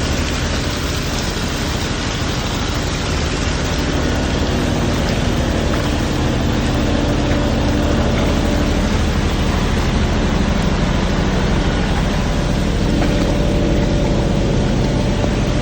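An engine running steadily, with a rushing noise over it.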